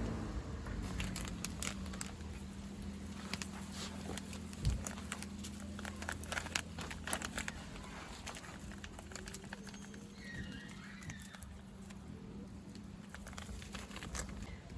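Wood campfire crackling in irregular sharp clicks over a steady low hum, with one heavier knock about five seconds in and a short bird call about ten seconds in.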